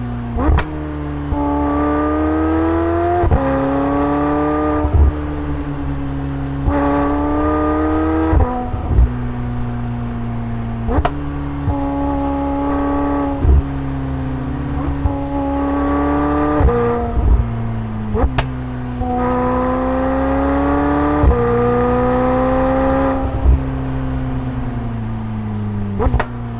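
McLaren 720S twin-turbo V8 through its sports exhaust, pulling through a series of gear changes. The note climbs gently and then drops suddenly with a sharp crack at each shift, about a dozen times.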